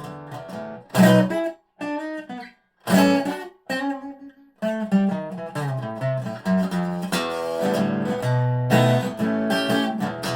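1985 Dobro spider-cone resonator guitar with a natural maple body, strummed and picked. Chords are struck hard about one and three seconds in, each followed by a brief pause, then the playing goes on more steadily.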